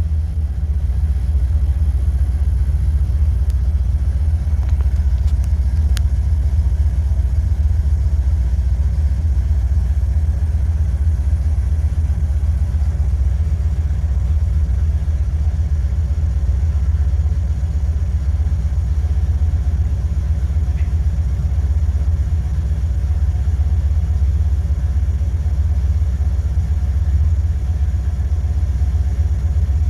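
1968 Chrysler 300's 440 big-block V8 idling steadily after a cold start, with a deep, even rumble heard from inside the car.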